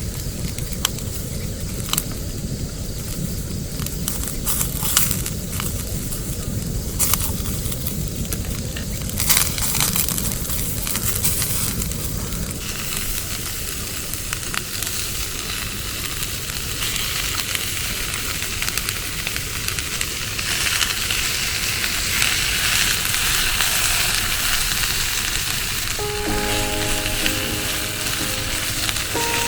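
Food sizzling in a frying pan, the hiss growing stronger through the second half, with scattered clicks and a low rumble in the first half. Soft background music comes in near the end.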